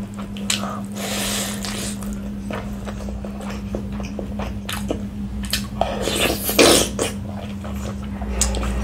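Close-miked wet chewing and mouth clicks of someone eating spiced rice and chicken curry by hand, with louder rustling bursts about a second in and again around six and a half seconds. A steady low hum runs underneath.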